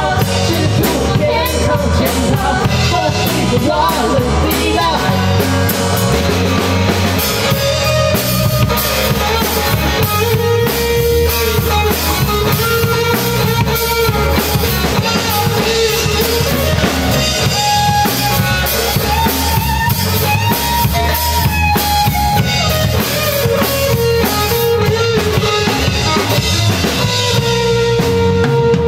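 A live band playing a rock-style song: drum kit and guitars keep a steady beat under long held melody notes.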